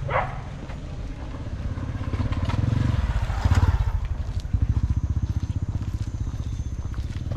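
Motorbike engine running close by with a fast, even chugging, growing louder toward the middle and easing off slightly after.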